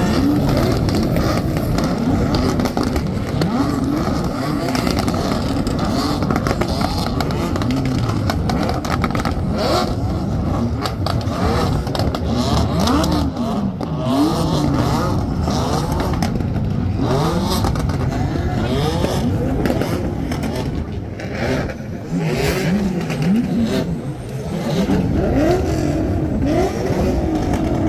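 Dozens of car engines revving at the same time, a dense mass of overlapping revs rising and falling in pitch.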